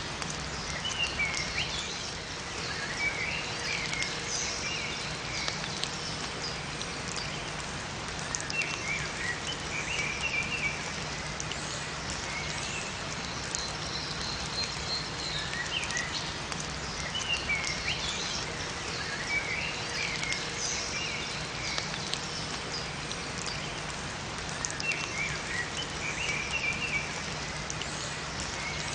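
Steady rain falling in a forest, with small songbirds singing over it: a short chirping phrase comes back about every eight seconds, with higher chirps between.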